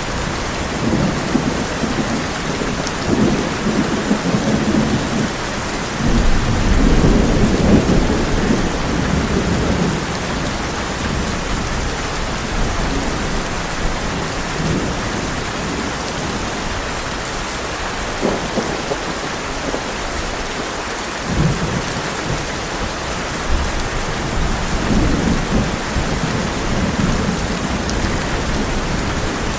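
Heavy rain drumming steadily on a tin roof, with rolling thunder rumbling underneath, the loudest roll swelling from about six to nine seconds in.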